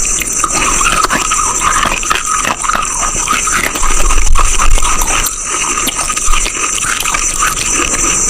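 Close-miked crunching of brittle chalk being bitten and chewed: a dense, irregular run of crisp crackles and snaps.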